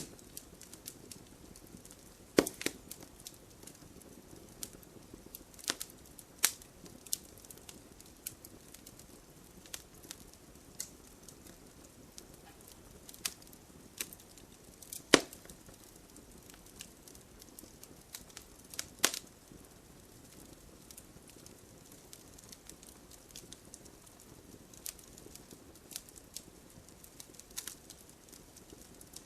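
Wood fire in a fireplace crackling: irregular sharp pops and snaps over a faint steady hiss, with a few louder pops, the loudest about halfway through.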